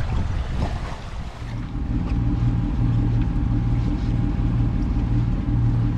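Wind buffeting the microphone and rushing water while under sail, cutting off abruptly about a second and a half in to the steady low hum of a sailboat's engine motoring along.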